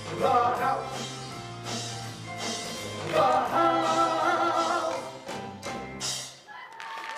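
Male voices singing the closing notes of a musical-theatre song over live accompaniment with accented hits; the music ends about six and a half seconds in and audience applause starts.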